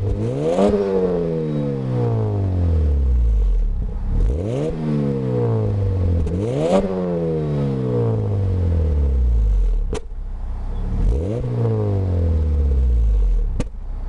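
Acura Integra GSR's 1.8-litre four-cylinder engine revving through a MagnaFlow exhaust: four quick blips of the throttle, the pitch each time shooting up and then sliding slowly back down. There are two short sharp clicks in the second half.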